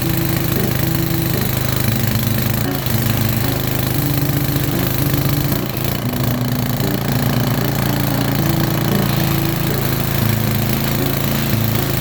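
Gas pressure washer running steadily, its small engine's pulsing drone under the hiss of the high-pressure spray as the mower is washed down.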